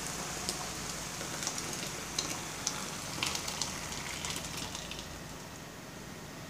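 Tripe frying in a pot with onion and garlic, sizzling with scattered crackles as puréed tomato is poured over it. The crackling dies down about five seconds in, leaving a softer, steady simmer.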